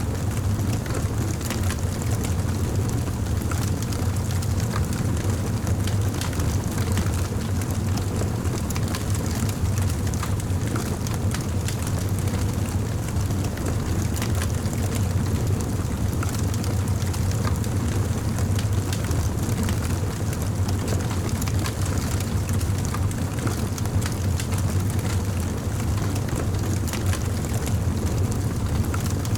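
Campfire burning, with a steady low rumble of flame under frequent small crackles and pops of burning wood.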